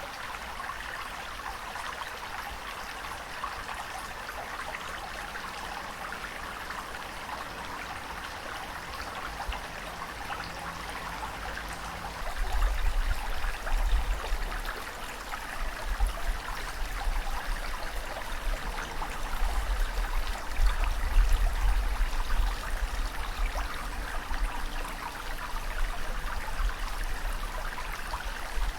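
Ocean water noise: a steady wash of hiss, joined about halfway through by a deep, uneven rumble that makes the loudness rise and fall.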